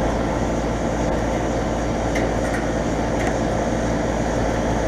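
2012 Bryant Legacy Series central air conditioner outdoor unit running steadily: an even rush of air from the condenser fan over a low, steady hum.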